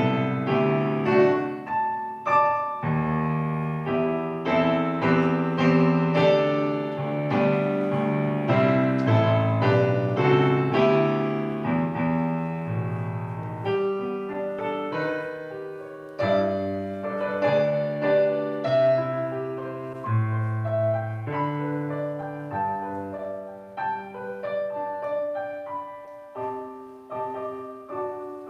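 Solo piano playing a slow, gentle piece: chords and melody notes struck and left to ring. It grows gradually softer toward the end.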